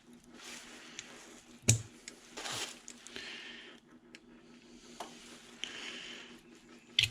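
Hand tools clicking and scraping on the metal pump housing while a valve is worked out of a pressure washer pump. There is a sharp click about two seconds in and another near the end, with short scrapes between, over a steady low hum.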